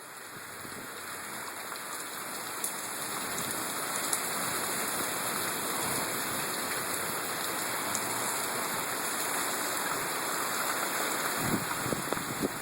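Heavy rain pouring down in a storm, a steady hiss that grows louder over the first few seconds and then holds. Near the end a low rumble of wind joins it.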